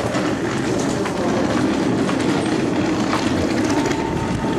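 Passenger train running on rails: steady rumble and rattle with scattered clicks, and a faint steady whine that comes in near the end.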